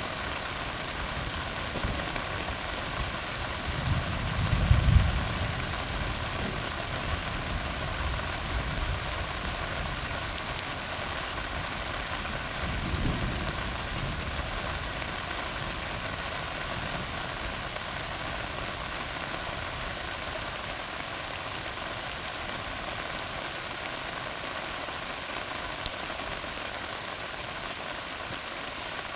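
Steady rain falling on a tar road, with faint scattered drop ticks. Two short low rumbles come through it, the louder about four to five seconds in and a weaker one around thirteen seconds.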